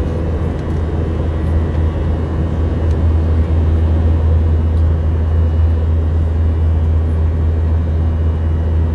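Steady drone of a jet airliner heard from inside the passenger cabin: a deep, even rumble with a broad hiss over it.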